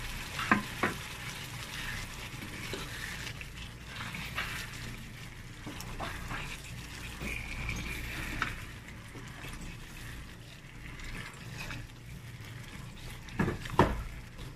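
Chicken karahi sizzling in a wok while a wooden spatula stirs it, with a few knocks of the spatula against the pan, the loudest two near the end.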